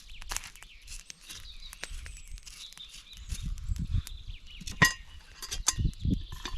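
Low thumps and rustling handling noises, with a sharp ringing clink about five seconds in and a few lighter clicks; small birds chirp faintly.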